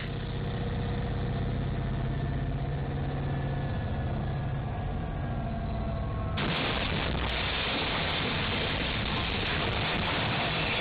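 Diesel freight locomotive heard from its cab as a steady engine hum. About six seconds in, a loud, even rushing hiss suddenly takes over and carries on while the train collides with a barge and derails.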